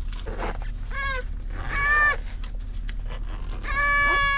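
A young child's wordless, high-pitched whiny calls: a short one, another shortly after, and a long held one near the end, over a low steady hum.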